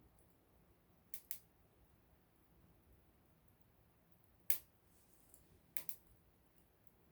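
Small wood campfire crackling, with sparse sharp pops of burning wood: a quick pair about a second in, the loudest single pop past halfway, and another quick pair soon after.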